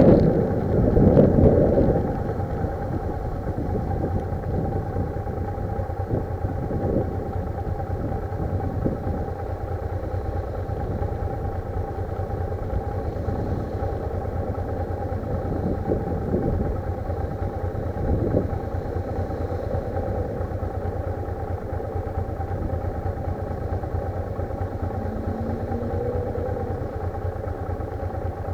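Motorcycle engine running steadily, heard from a camera mounted on the bike. Loud wind noise on the microphone dies away over the first two seconds.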